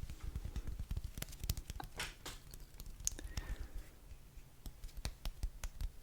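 Close-miked ASMR trigger sounds: a quick, irregular string of small taps and clicks with a little crinkling.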